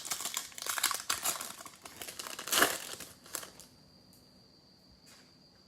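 Crinkling and rustling of foil trading card pack wrappers and cards being handled, loudest about two and a half seconds in, then dying away to quiet.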